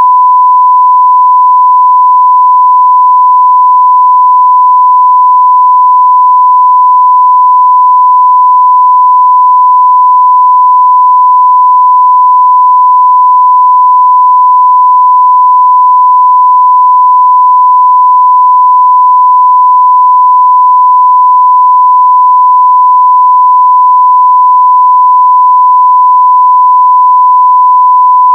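A 1 kHz sine-wave test tone at full scale, one pure steady pitch held without a break.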